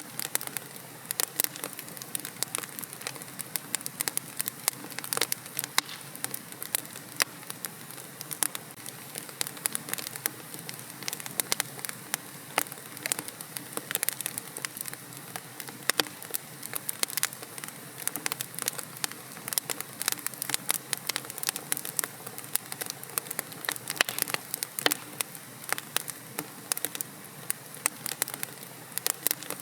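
Wood fire crackling steadily in a fireplace: many irregular sharp pops and snaps over a soft hiss of burning.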